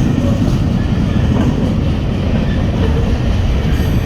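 BNSF freight train's cars rolling past close by, a loud steady rumble of wheels on rail as the train picks up speed.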